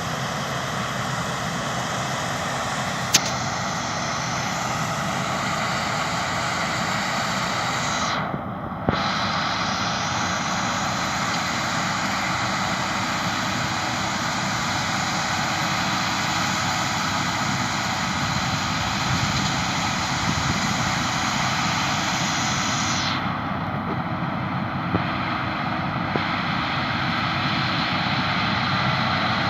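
Claas Lexion combine harvester working, a steady drone of engine and machinery with a faint whine in it.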